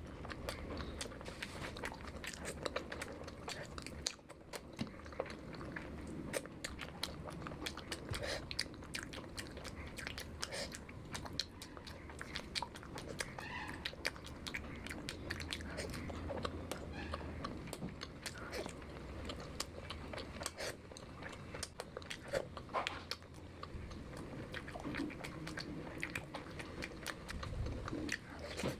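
Close-miked chewing and biting of a person eating, a steady run of many small mouth clicks.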